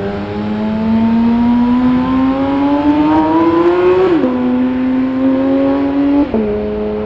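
Car engine and exhaust accelerating hard, its pitch climbing steadily for about four seconds. It then drops sharply twice, at upshifts about four and six seconds in.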